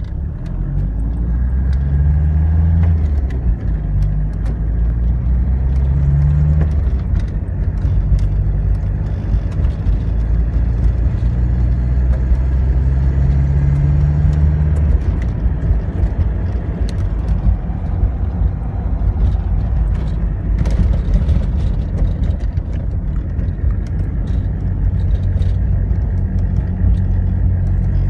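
1995 Jeep Cherokee XJ's 2.5 VM turbo diesel four-cylinder pulling under acceleration. Its note climbs in pitch three times over the first half, dropping between climbs, then settles into a steady run with a rougher rumble and scattered clicks.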